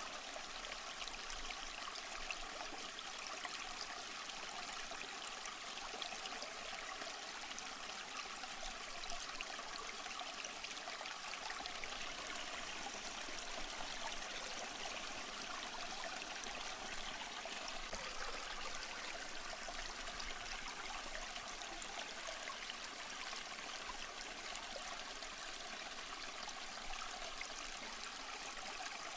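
Small stream flowing over rocks: a steady babble and trickle of running water with no breaks.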